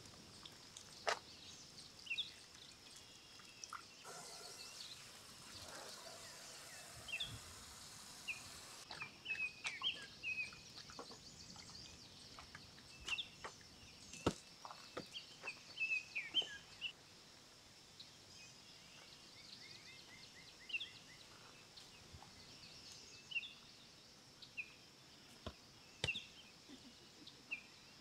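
Birds chirping and calling again and again over a faint steady outdoor background, with a quick trill about two-thirds of the way in. Scattered sharp clicks and taps come in among the calls.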